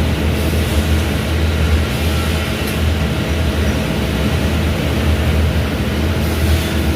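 Small bandsaw running steadily under its electric motor, a constant low hum with machine noise and no change in speed.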